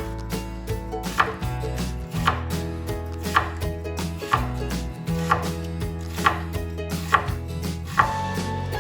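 Knife chopping on a cutting board with slow, even strokes, about one cut a second. Background music runs underneath.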